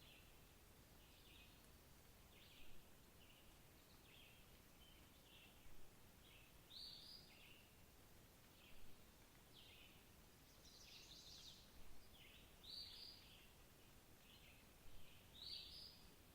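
Birds calling faintly: short, high chirps repeated irregularly every second or so, with a longer, scratchier run of notes a little past the middle, over a faint steady background hiss.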